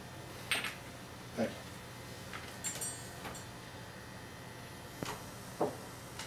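A quiet dinner table with a few scattered short clinks and taps of cutlery on plates and dishes. One of them, a little under 3 seconds in, rings briefly.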